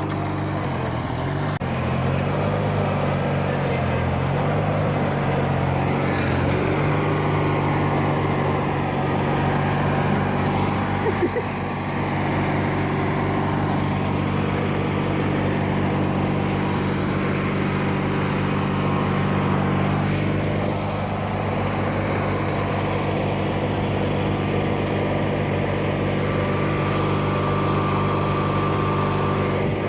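Riding lawn tractor engine running, its speed wavering over the first several seconds and then holding steady.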